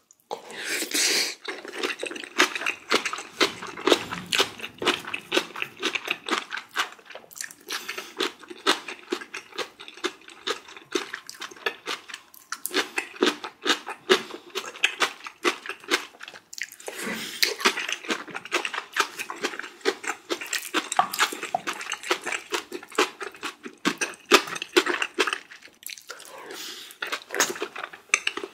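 A person chewing and crunching food up close, with a rapid stream of small wet mouth clicks and crunches and brief pauses between mouthfuls.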